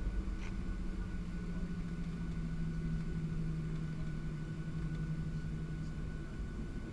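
Steady drone of a Boeing 737-700 heard on board, made by its engines and airflow, with a constant low hum and a faint high tone.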